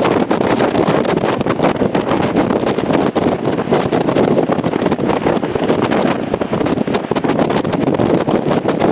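Strong typhoon wind blowing hard against the microphone: a loud, steady rush with constant crackling buffets.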